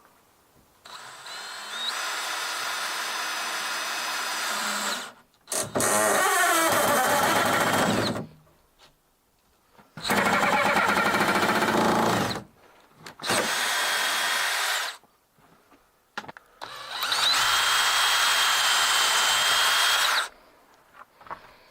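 Handheld power tool, like a drill, run in five separate bursts of about two to four seconds each with short pauses between them; the first burst is quieter than the rest.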